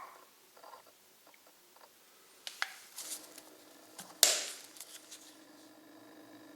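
A few light clicks and knocks, then one sharp clink about four seconds in that rings briefly, over a faint steady hum.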